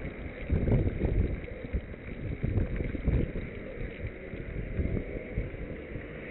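Wind buffeting the microphone on a moving bicycle: irregular low rumbling gusts, loudest about half a second and three seconds in.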